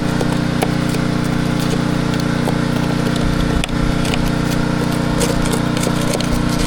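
A motor running steadily with a constant low hum, with light clicks scattered through it.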